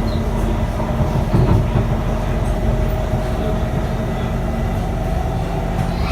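Interior running noise of an SMRT Kawasaki C151 train car under way: a steady low rumble with a faint motor whine that rises slightly in pitch.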